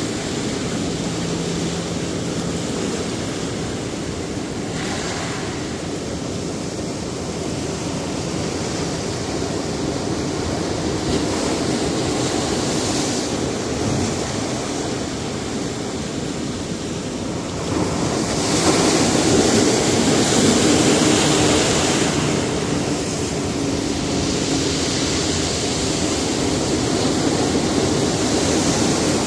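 Sea surf breaking on a rocky coast: a continuous wash of waves, with one louder wave surging in about two thirds of the way through.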